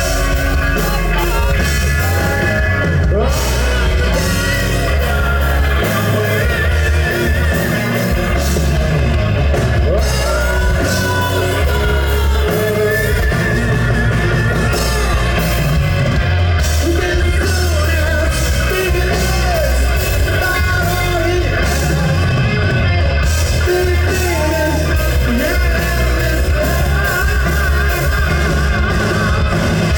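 Live rock band playing loudly, with a singer's voice over the music.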